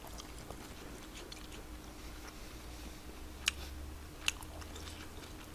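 A person quietly chewing tteokbokki, with faint wet mouth clicks and two sharper clicks about three and a half and four and a quarter seconds in.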